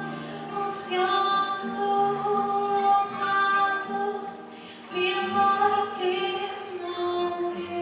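Music: a woman singing a slow melody in long held notes.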